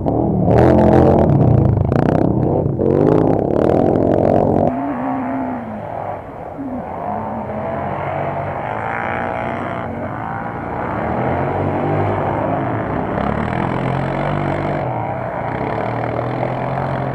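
Off-road vehicle engines (ATVs and buggies) running and revving, the pitch rising and falling; loudest for the first four or five seconds with a few sharp clicks, then running more steadily.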